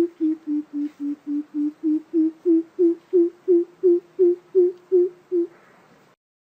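Greater coucal giving its lure call: a fast run of deep, hollow hoots, about three a second, that grow louder and stop near the end.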